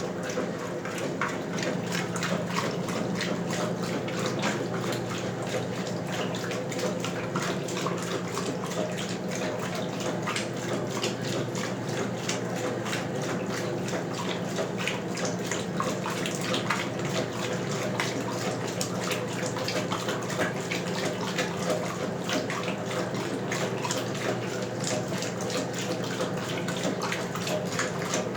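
1977 Westinghouse Lavínia washing machine running with water in it: a steady rush and splash of water over an even motor hum.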